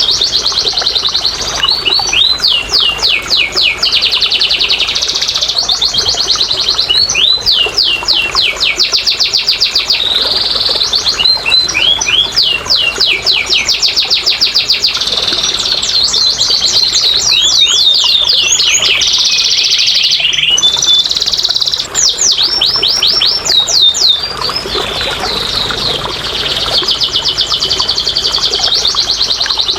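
Domestic canary singing a long, continuous song of fast trills and rolls. Series of rapid repeated notes and quick sweeping notes change every second or two, with only brief pauses.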